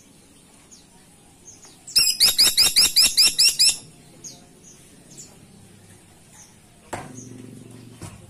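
Caladi tikotok woodpecker calling: a loud rapid run of about ten sharp notes, each falling in pitch, about six a second for just under two seconds. Faint chirps are scattered around it, and a low steady hum starts near the end.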